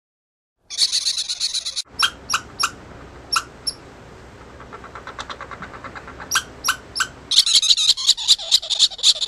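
Small birds chirping in woodland: bursts of high chirping at the start and end, with separate sharp chip notes between them and a fast run of faint ticks near the middle.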